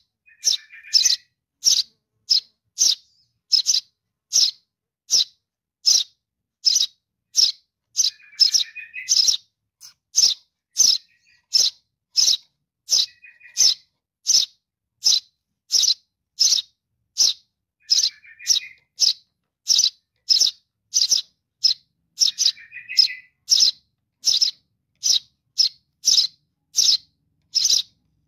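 Baby sparrow calling for its parent: short, high chirps repeated about twice a second, with a lower, rough twittering call every few seconds.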